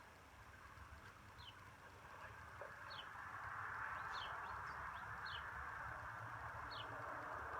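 A bird calling outdoors: short, high, downward chirps repeated about once every second or so. Beneath it is a steady rushing noise that gets louder partway through.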